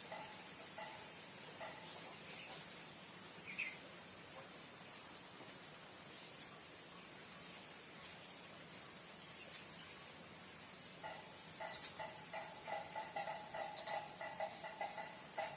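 Insects trilling: a steady high-pitched drone with a regular pulsing note just below it. About two-thirds through, a lower rapid pulsing chorus joins in, and three short, sharp, high chirps sound in the later part.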